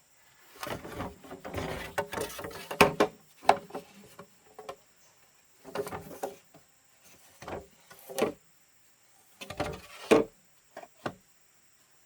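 Wooden poles or timber being handled: irregular knocks, scrapes and clatters of wood on wood in short groups.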